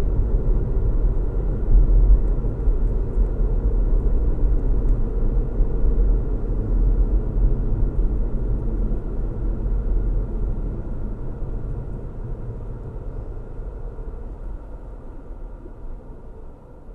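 Car driving on a road: a steady low rumble of tyre and engine noise, fading away over the last several seconds.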